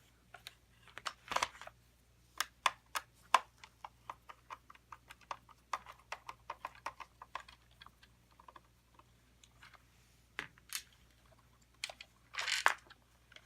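Irregular light clicks and taps of small plastic parts and a hand tool being handled while a robot vacuum is taken apart. The clicks are thickest in the first half, with a short rattle near the end.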